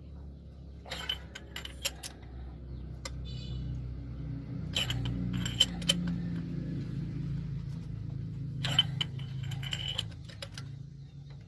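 Metal hand tools clinking and clicking against each other in three short bursts, over a steady low mechanical hum.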